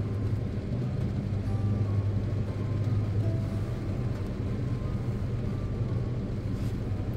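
Steady low engine hum inside a stationary car, with rain on the windshield as a soft even hiss.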